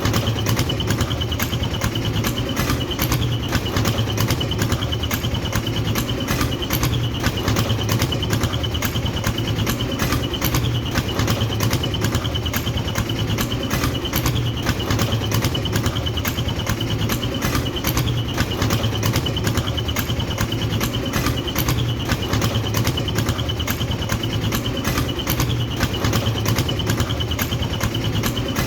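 Small engine of a homemade mini tractor running steadily, with a fast, even beat.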